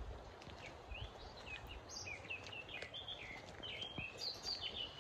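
A small songbird singing: quick, varied high chirps and short slurred notes that begin about a second in and come thicker toward the end.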